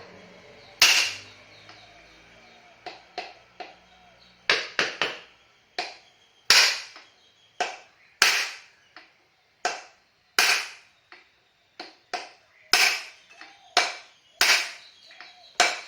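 Repeated hammer blows on metal, about twenty sharp strikes with a short ring after each, some lighter than others, driving a stuck rear axle out of a Honda VT250F motorcycle's rear wheel.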